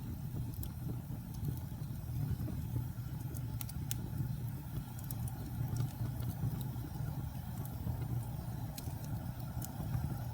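Wood fire in a fireplace crackling, with scattered sharp pops over a steady low rumble of the burning fire.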